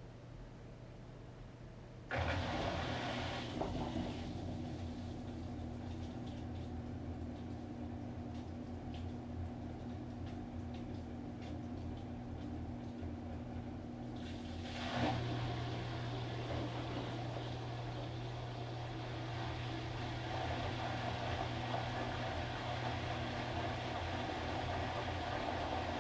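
Washing machine's drum motor starting up about two seconds in and running with a steady hum, which shifts to a louder, slightly higher hum about halfway through.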